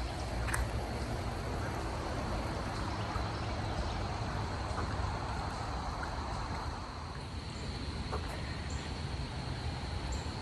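Steady rushing outdoor noise with wind rumbling on the microphone, under a faint, steady high-pitched tone.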